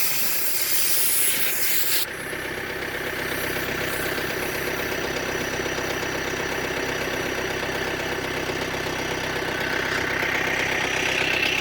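An engine idling steadily, with a loud hiss over it for about the first two seconds that cuts off suddenly.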